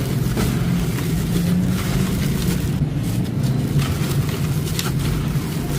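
Soft sand crumbling and crunching in a clay pot, with scattered small crackles over a steady low rumble.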